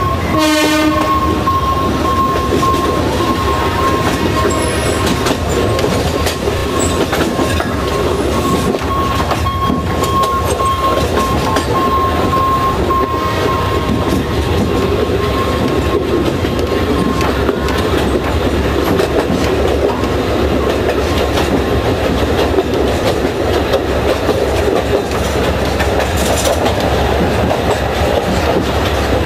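Alishan Forest Railway train running on the narrow-gauge track, a steady rumble with the clatter of wheels over rail joints. A short horn blast sounds about half a second in, and a thin steady high tone carries on through the first half.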